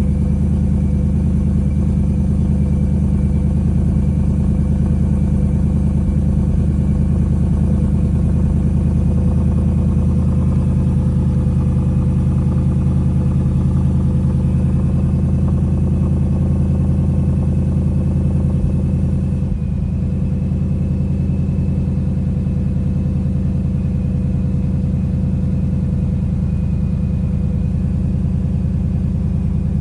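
2021 Ford Mustang Mach 1's 5.0-litre V8 running at a steady idle after a cold start. The sound drops a little in level about twenty seconds in and then holds steady.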